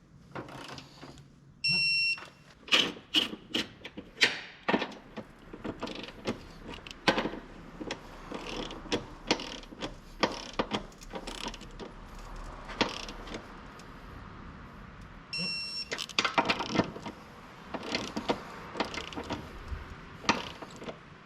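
Hand tools clicking and clanking on metal during work on the car's front suspension: many sharp knocks and clicks. Two short electronic beeps stand out, one about two seconds in and another around fifteen seconds in.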